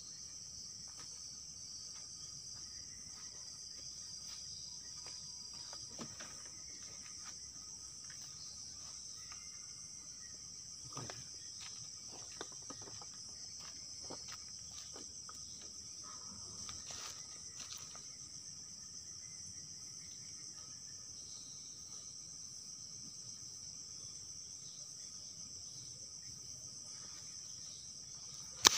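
Night insects chirring in a steady, high-pitched chorus, with a few faint clicks and one sharp, loud click at the very end.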